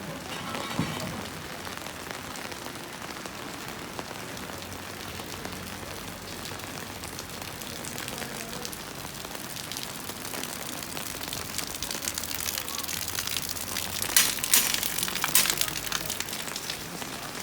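Rain falling steadily as a continuous patter. It grows louder and more crackly in the last few seconds as drops hit close by.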